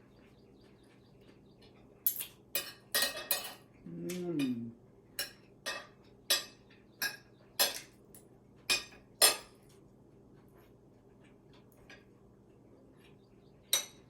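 Eating utensils clinking against plates and bowls at a meal: about a dozen sharp clinks between two and ten seconds in, then one more near the end. A short voice sound falling in pitch comes about four seconds in.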